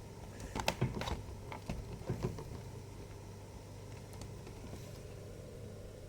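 A quick run of light clicks and knocks from plastic laptop parts being handled, over the first couple of seconds, then only a steady low hum.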